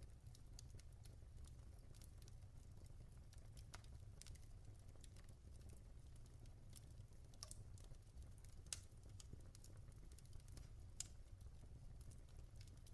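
Logs burning in a fireplace, crackling quietly: scattered small pops and ticks over a low steady rumble, with two sharper pops in the second half.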